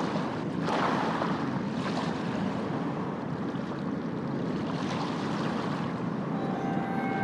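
Steady rushing ambient noise, like wind or surf, that swells briefly about a second in, again at two seconds and near five seconds.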